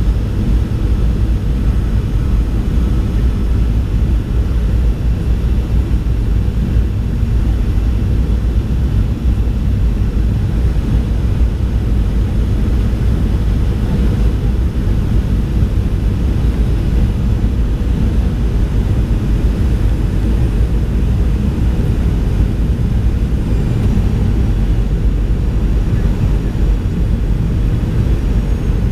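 Steady low rumble of a Boeing 737 airliner in flight, heard from inside the cabin: engine and airflow noise.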